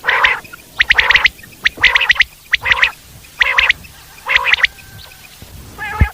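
Common quail calling: a steady run of calls about one a second, each a quick burst of sharp, liquid notes (the 'wet-my-lips' song), alternating with lower nasal notes. A low thump comes near the end.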